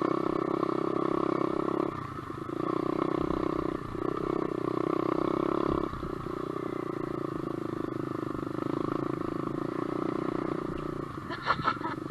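SSR125 dirt bike's four-stroke single-cylinder engine running on a trail, the throttle rolled off and back on about every two seconds, then held steadier and lower through the second half. A few brief sharp sounds come near the end.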